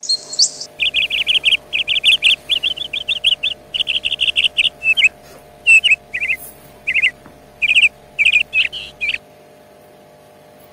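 A songbird singing: runs of quick chirping trills in short phrases, which stop about a second before the end. A steady low hum runs underneath, and a short hiss comes at the very start.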